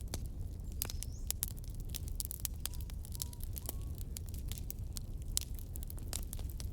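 Campfire burning: wood crackling and popping in irregular sharp snaps over a low, steady rumble.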